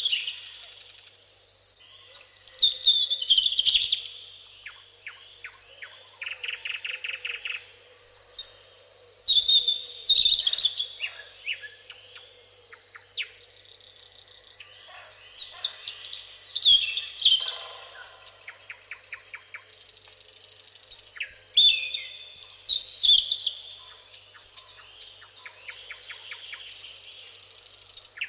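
Several songbirds singing, with a loud warbling phrase every six seconds or so and rapid buzzy trills in between. A steady thin high tone runs underneath.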